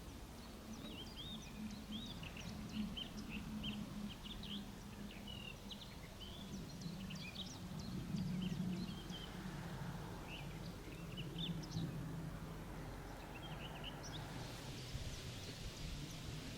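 Small birds chirping and twittering in many short, quick notes over a low, uneven hum. A soft hiss comes in near the end.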